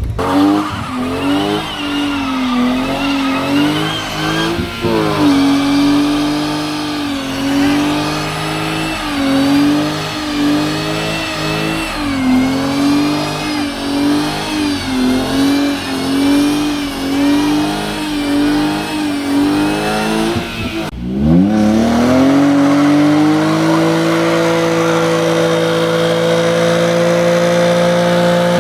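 Car engine held at high revs, its pitch wavering up and down about once a second. About 21 seconds in it drops briefly, then climbs and holds steady at high revs.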